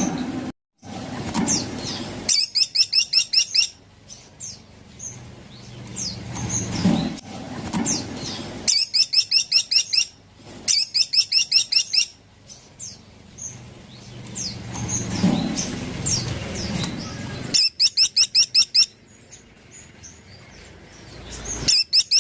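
Caladi tikotok, a small woodpecker, calling: runs of rapid, high, sharp notes, about eight a second, each run lasting around a second and repeated five times. Softer scattered chirps fill the gaps between the runs.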